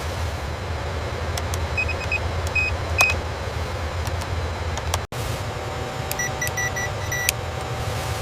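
Steady machinery hum with a low rumble and scattered light clicks, broken by short electronic beeps: a few about two to three seconds in, and a quicker run of beeps around six to seven seconds in. The sound drops out for an instant about five seconds in, and a thin steady tone joins the hum after that.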